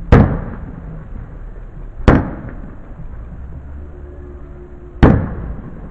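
Three aerial firework shells bursting: sharp bangs about two and three seconds apart, each dying away in a short echoing tail.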